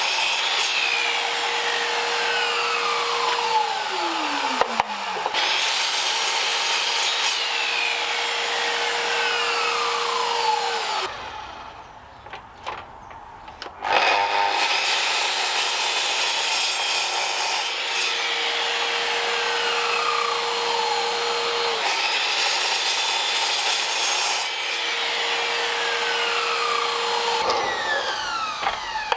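Oak being sawn, in two long stretches with a short pause about halfway through.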